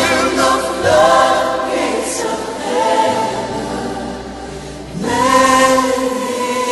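Choir singing long held notes with instrumental backing in a gospel worship song, a new chord swelling in about five seconds in.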